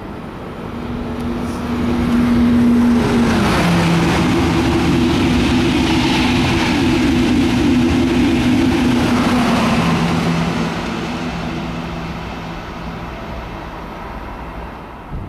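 A Eurostar Class 373 high-speed train passing at speed: a rush that builds over the first two seconds, with a motor whine that drops in pitch as the leading power car goes by. The coaches keep up a steady rushing until about ten seconds in, and then the sound fades as the train recedes.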